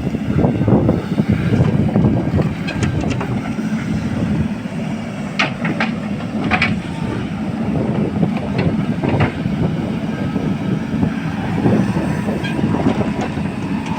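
Heavy diesel machinery working steadily under load. A few sharp metallic clanks come in the middle.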